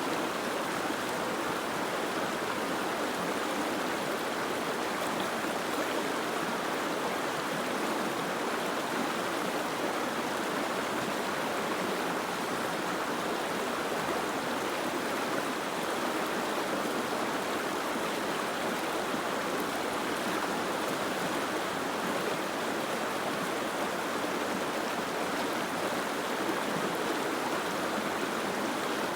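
Steady, even rush of water, with no single drops, splashes or bird calls standing out.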